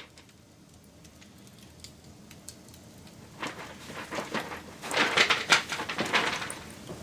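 Campfire crackling: a few faint pops at first, then from about halfway a dense, louder run of crackles and snaps that peaks a couple of seconds later.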